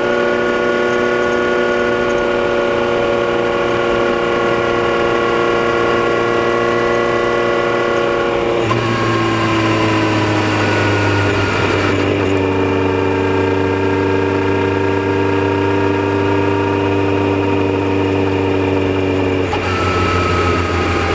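Kawasaki Z900RS inline-four running through a Holeshot Lextek header and aftermarket muffler, picked up by a microphone under the seat while the bike cruises at a steady engine speed. About nine seconds in, the pitch eases down and then holds steady again.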